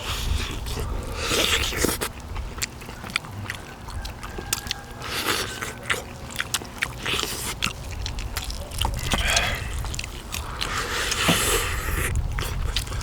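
Someone eating pork bone soup: biting and chewing meat off the bones, with many sharp clicks and several short noisy bursts over a steady low rumble.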